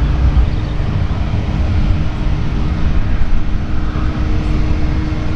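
Jet airliner engines rumbling steadily with a deep roar, a thin steady hum running through it and a second higher hum joining near the end.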